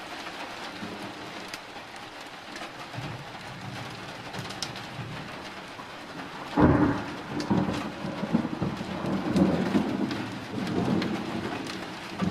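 Steady rain falling during a thunderstorm. About two-thirds of the way in, a sudden clap of thunder breaks in and rumbles on in swells to the end.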